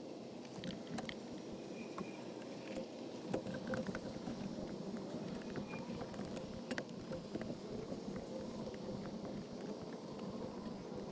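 Scattered light clicks and knocks of hand tools and engine parts being handled, over a steady low background hum.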